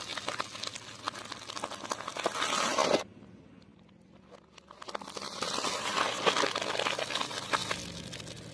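Food being crushed under a car's tyre: dense crunching and crackling for about three seconds that stops suddenly, then starts again about two seconds later.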